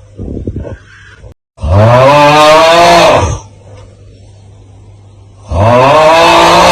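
The 'Aauuggh' meme sound: a man's loud, strained yell, heard twice, each just under two seconds long with its pitch rising and then falling. A short, much fainter sound comes shortly before the first yell.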